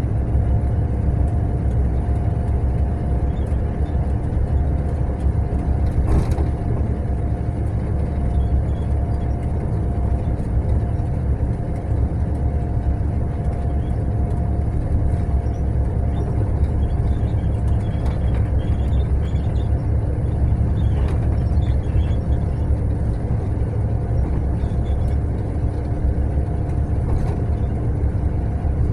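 Mercedes-Benz long-distance coach travelling steadily: a continuous low engine and road rumble with a steady whine, and a few faint light rattles about two-thirds of the way through.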